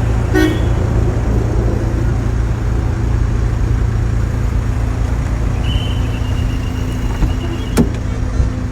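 A car on the move: a steady low rumble of engine and road. A thin high tone sounds through the last few seconds.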